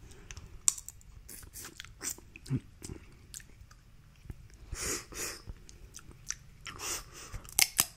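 Close-up mouth sounds of a person eating seafood-boil meat: chewing with wet lip smacks and scattered sticky clicks, and a few longer noisy mouth sounds around the middle and near the end.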